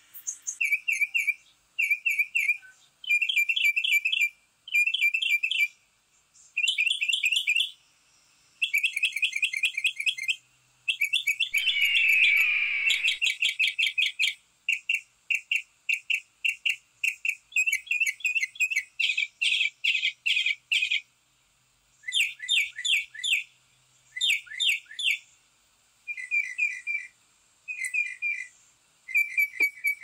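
Backyard songbirds chirping in quick runs of short, high notes, one phrase after another with brief pauses. A longer falling whistle comes partway through.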